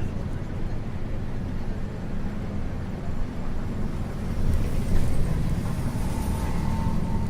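Isuzu U-LV224N route bus with a 6QB2 diesel engine running under way, heard from inside the cabin: a steady low engine drone mixed with road noise, with a faint whine joining near the end.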